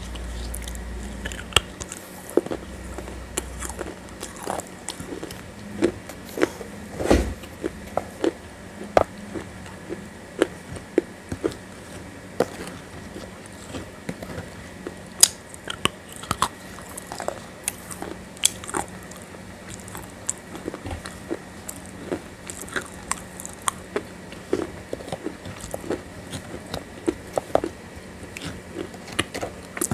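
Close-miked biting and chewing of a crunchy grey paste-like slab: a run of irregular sharp crunches, several a second, with a few louder bites standing out.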